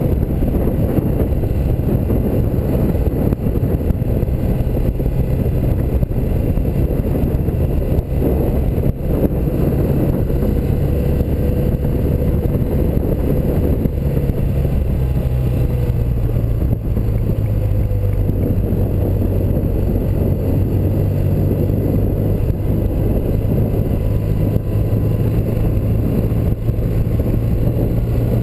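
1984 BMW R100RS motorcycle's air-cooled flat-twin boxer engine running steadily while riding, its note shifting slightly about two-thirds of the way in.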